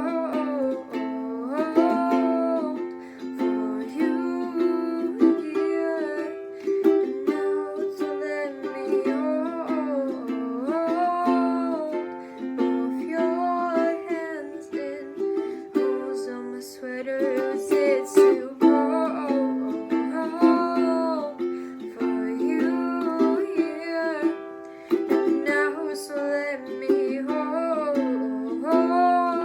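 Ukulele strummed in steady chords, with a voice singing a wordless melody over it.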